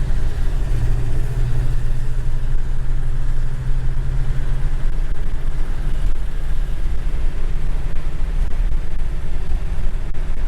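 A 1968 Rover P5b's 3.5-litre V8 running as the car drives, under low road rumble; a steady engine drone fades about five seconds in.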